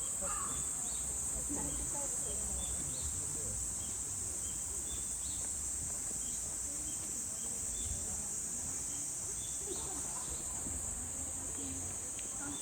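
Steady high-pitched insect chorus of the summer woods, with faint short chirps above the background and quiet distant voices near the start and again near the end.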